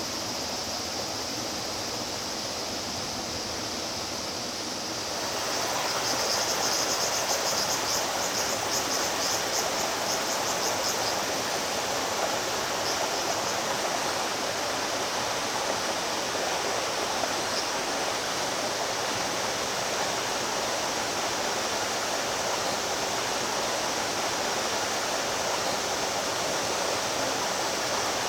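Stream water flowing steadily over rocks. About five seconds in it becomes louder and brighter. A high, fast-pulsing trill sounds over the water for several seconds after that.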